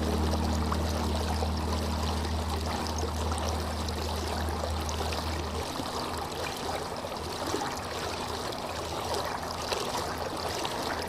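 Water flowing and trickling steadily, like a stream. A low, held tone underneath stops about halfway through.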